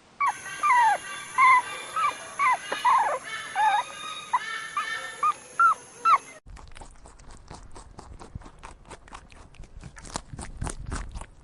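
Puppies whimpering and yelping in a run of short, high calls that slide down in pitch. After about six seconds this cuts off to a quieter, rapid series of clicks and crunches.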